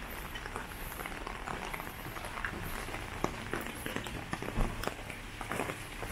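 Rainy city street ambience: a steady wet hiss of rain and street noise, with scattered sharp ticks and taps of falling drops.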